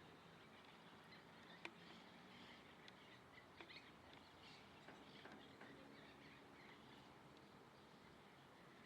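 Faint, scattered small-bird chirps over a quiet background with a low hum, and a single sharp click about a second and a half in.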